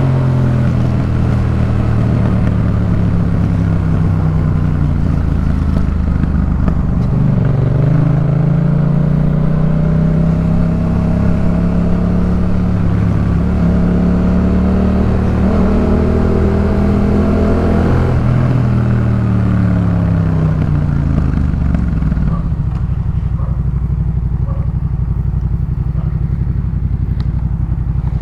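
2018 Yamaha MT-07's 689 cc parallel-twin running through a Jeskap K4 full aftermarket exhaust while ridden. The revs drop at first, climb slowly from about a quarter of the way in, then fall away and settle to a steady low idle for the last several seconds.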